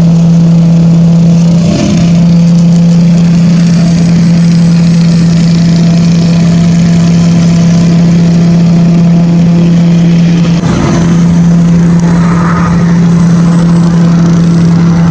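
An engine running at a steady speed, a loud constant drone that barely changes pitch.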